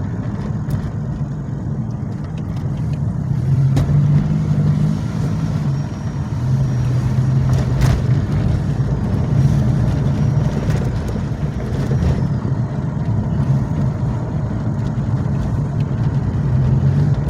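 2006 Pontiac Grand Prix engine running steadily as the car is driven slowly in second gear, the engine note rising a little a few seconds in. The automatic transmission is failing: it barely pulls in first gear and the owner judges it toast.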